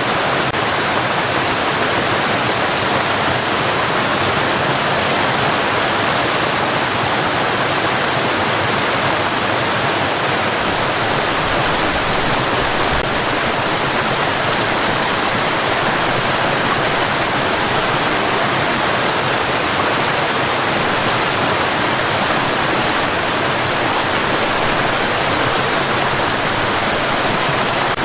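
Steady, unbroken white noise: an even rushing hiss for sleep masking, with no change in level or pitch.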